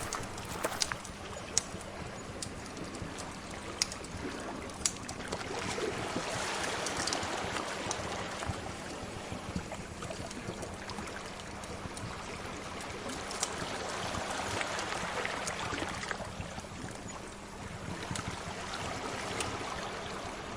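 Ocean waves washing in and drawing back in slow swells, with scattered sharp pops of a crackling wood fire.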